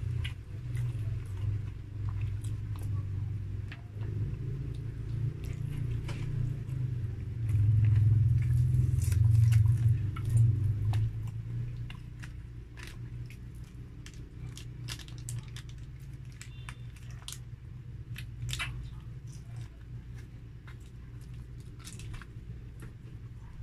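Close-up eating sounds of a person chewing grilled chicken and rice with their mouth: many short wet smacks and clicks throughout. A low rumble runs underneath, loudest from about seven to eleven seconds in, and fades after about twelve seconds.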